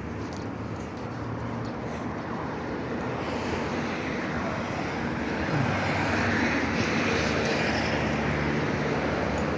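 Motor-vehicle road noise: an engine hum and tyre rush that swell louder about five and a half seconds in, as from a vehicle pulling away or passing close.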